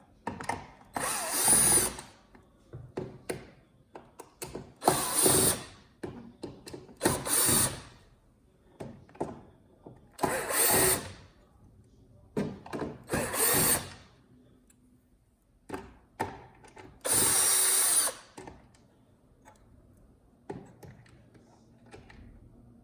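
A power drill-driver running in about six short bursts, the longest near the end, with small clicks and handling noises between them: backing out the screws that hold the TV's subwoofers.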